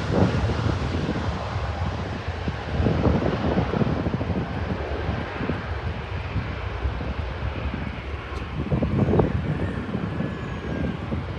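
Jet engine noise from a Boeing 727-225F freighter, with its Pratt & Whitney JT8D turbofans giving a steady low rumble that swells a few times.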